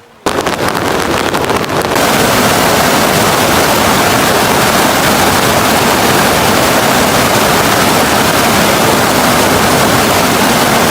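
Loud, steady rushing noise that starts abruptly and holds an even level throughout.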